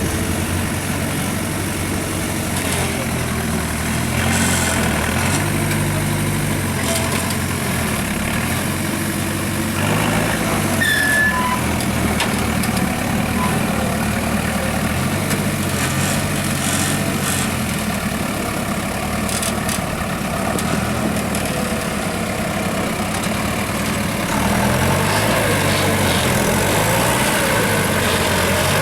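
Heavy trial truck's diesel engine running, its pitch stepping up and down as the revs rise and fall.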